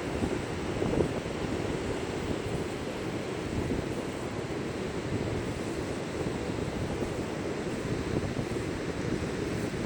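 Strong wind, around Force 6, buffeting the microphone: a steady low rumbling noise that flutters with the gusts.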